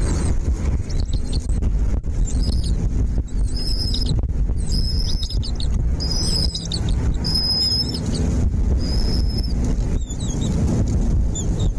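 Small birds chirping: a series of short, high-pitched calls, about one a second, over a steady low rumble.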